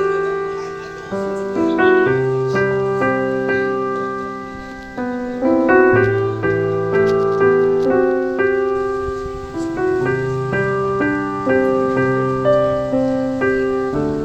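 Slow, gentle piano music: single melody notes struck and left to fade over held low bass notes.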